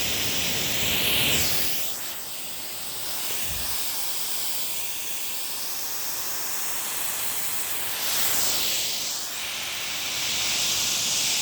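Medium-pressure jet of water shooting from a nozzle: a steady hissing spray that swells louder about a second in and again near the end.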